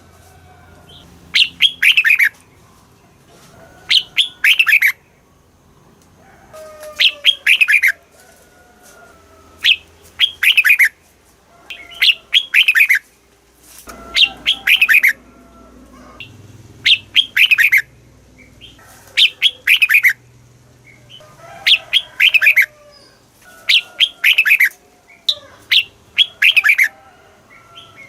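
Red-whiskered bulbul singing, repeating a short phrase of several quick falling notes about once every two seconds.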